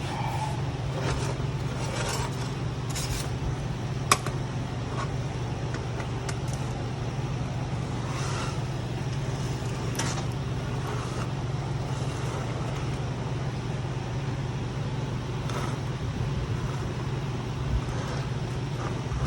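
A steady low mechanical hum, with scattered light clicks and taps of a screwdriver and small metal parts as the brushes of a hydraulic pump's electric motor are worked on by hand.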